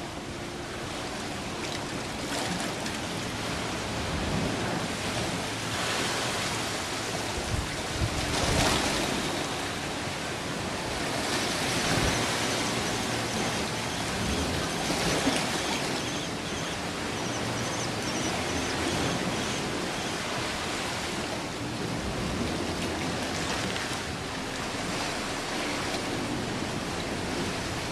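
Outdoor ambience of steadily rushing water that swells and eases, with faint high bird calls over it around the middle.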